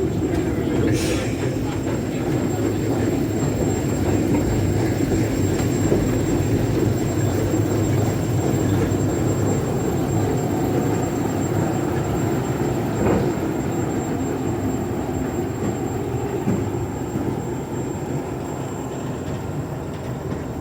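A railway locomotive running steadily, a continuous low mechanical rumble that eases off slightly near the end.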